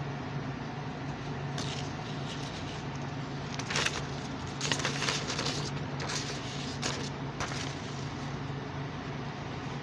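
Steady low background hum with a few short clicks and crackles scattered through it, the clearest a little under four seconds in and near five seconds in.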